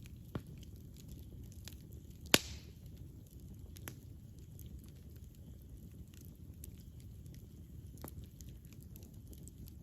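Wood fire burning with a low, steady rustle of flames and scattered crackles, one sharp loud pop about two and a half seconds in and a few softer snaps after.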